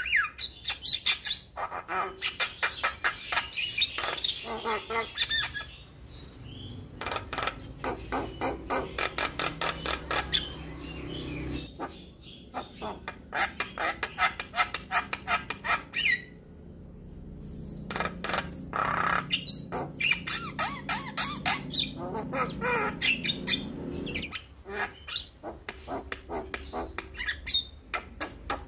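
Javan myna (jalak kebo) singing: rapid runs of harsh clicking and squawking notes mixed with short whistles. It comes in long bursts broken by brief pauses.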